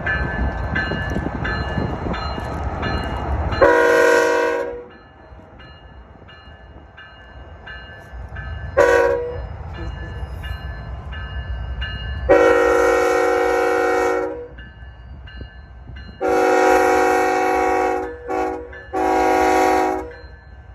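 BNSF locomotive air horn sounding a departing salute of six blasts: a long one about four seconds in, a short toot, a long, another long, a quick toot and a final long. Through it a locomotive bell rings at an even pace, and a low rumble fades after about four seconds.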